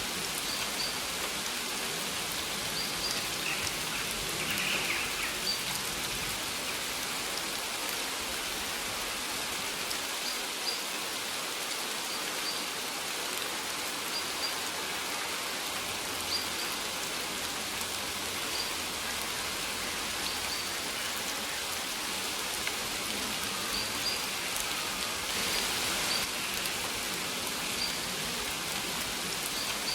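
Steady rain falling as an even hiss, with faint, brief high bird chirps scattered through it.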